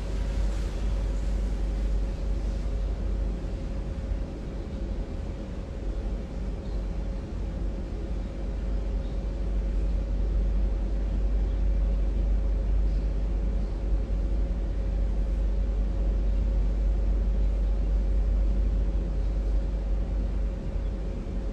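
Steady low rumble with a constant hum, like room or machinery noise, with no voice over it.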